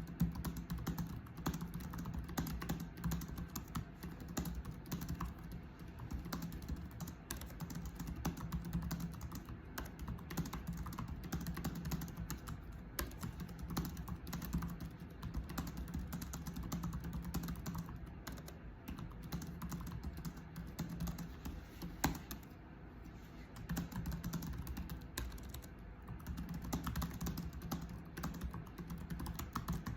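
Continuous fast typing on a computer keyboard: dense, irregular key clicks over a steady low hum, thinning briefly just after a sharper click a little past twenty seconds in.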